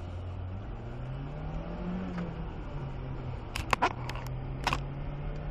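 Car engine running, rising in pitch as the car speeds up over the first two seconds, then settling to a steady hum. A few sharp clicks come about three and a half and four and a half seconds in.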